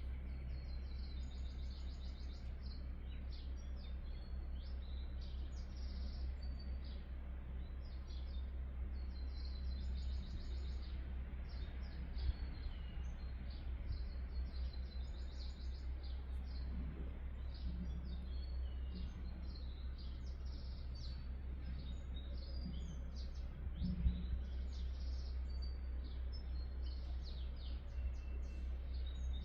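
Small birds chirping and twittering over a steady low hum, with a couple of soft knocks.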